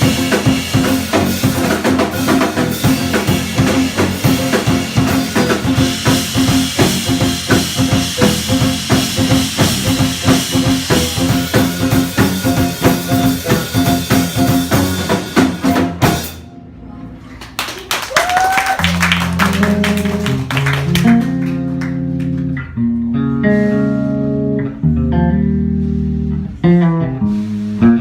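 Live jazz quartet of guitar, piano, bass and drum kit playing with busy drumming. About sixteen seconds in the drums stop abruptly, and the music thins to slower, sustained guitar and bass notes.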